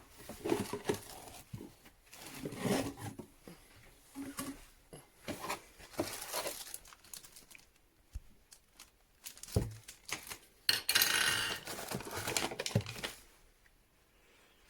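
Irregular rustling, crinkling and knocking of objects being handled, with a longer, louder rustle about eleven seconds in.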